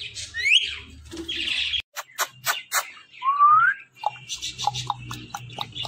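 Ringneck parrot calling: two rising whistles, one near the start and one about three seconds in, between a quick run of sharp clicks and harsh chattering notes, then short chirps.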